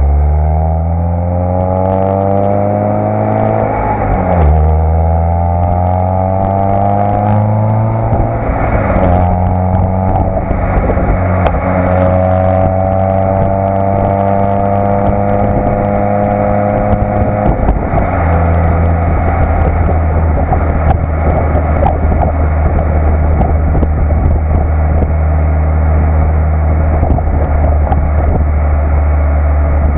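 Citroën Saxo VTS's 1.6-litre 16-valve four-cylinder engine through its stock exhaust, accelerating hard: revs climb, drop at an upshift about four seconds in, climb again to about eight seconds, then hold steady. About eighteen seconds in, the revs step down to a lower steady cruise, with road and wind noise throughout.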